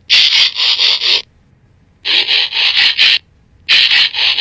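Added Transformers-style transformation sound effect: runs of rapid mechanical clacking and ratcheting, four or five quick strokes per run, three runs with short gaps between them.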